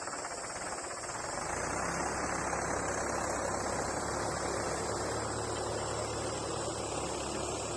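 A heavy vehicle's engine running steadily, growing louder with a deeper hum about a second and a half in.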